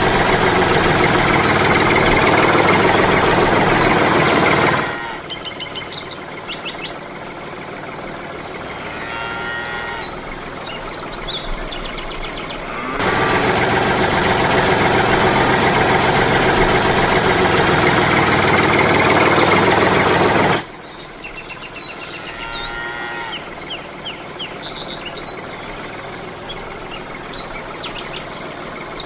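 A toy tractor's small electric motor running with a steady whir, cutting off about five seconds in. Birds chirp in the gap, then the motor runs again for about seven seconds and stops suddenly, leaving birdsong.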